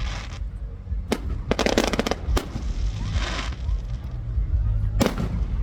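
Aerial fireworks bursting: a run of sharp bangs, with a quick cluster about one and a half to two seconds in and another bang near the end, and crackling in between.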